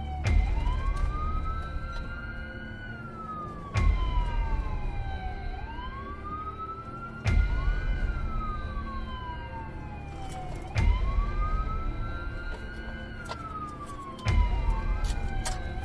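Police car siren on wail, rising and falling about every three and a half seconds. Each rise starts with a sharp click and a burst of low rumble from the vehicle.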